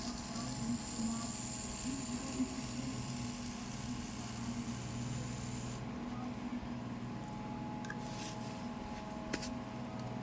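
A small electric motor running with a steady hum. A few faint clicks come near the end.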